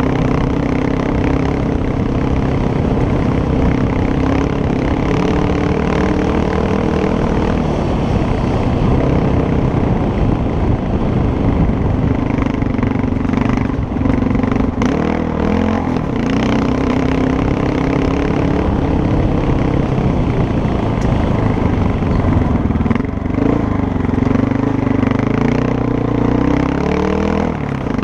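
Motorcycle engine running under way, its pitch rising and falling with the throttle, and a rev climbing near the end.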